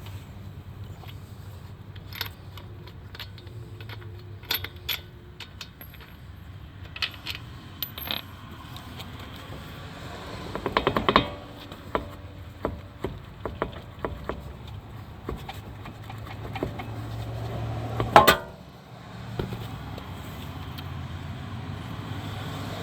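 Capped steel lug bolts being spun out of a front wheel hub with a wrench and set down, giving scattered metallic clinks and rattles, with a louder knock about 18 seconds in.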